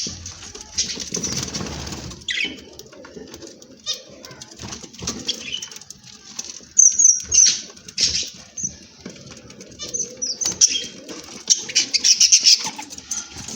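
Caged pet birds, budgies among them, fluttering and flapping their wings, with irregular short high chirps and scattered light knocks.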